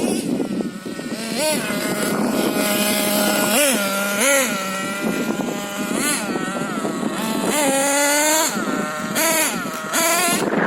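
LRP ZR.28 nitro engine in an RC monster truck revving up and down repeatedly, with the pitch rising and falling in several quick blips and one longer climb, which the owner says sounded quite lean near the end of the tank as it ran low on fuel.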